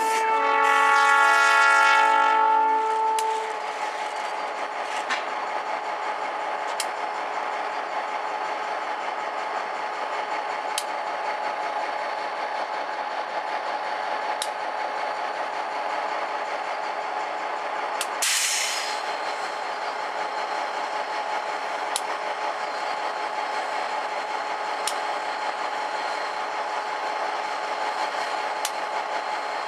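Diesel locomotive's multi-note horn sounding one blast of about three seconds, followed by the locomotive's engine running steadily with a held whine. About 18 seconds in there is a short hiss.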